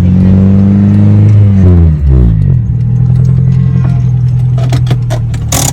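Honda City's four-cylinder petrol engine revved and held for about a second and a half, then dropping back to a lower, steady running. The car has been acting up and losing power. A few sharp clicks come near the end.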